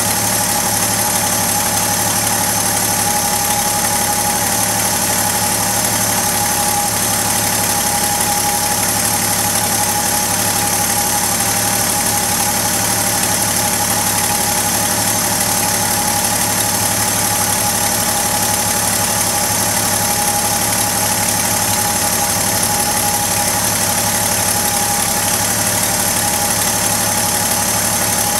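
1972 Chevrolet Custom 10 pickup's engine idling steadily.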